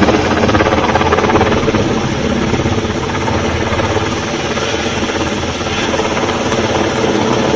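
Helicopter in flight close by, its rotor and turbine noise loud and steady.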